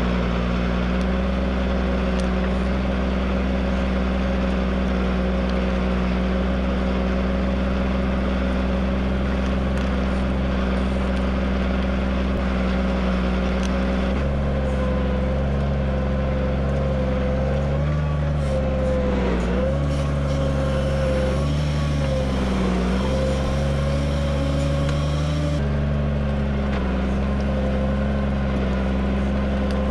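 Tractor engine running steadily under load while pulling a plough. About halfway through the engine note changes, then dips and recovers several times, as the engine labours under heavier load.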